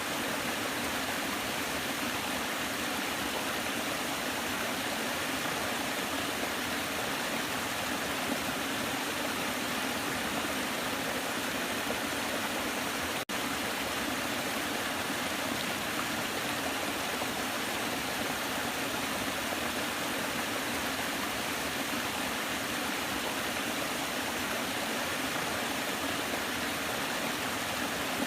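Waterfall: a steady, dense rush of falling water that cuts out for an instant about halfway through.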